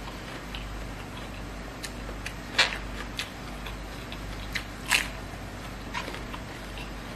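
Close-up mouth sounds of someone chewing a mouthful of rice and stir-fried greens: a string of short wet clicks and smacks, the two loudest about two and a half and five seconds in. A low steady hum runs underneath.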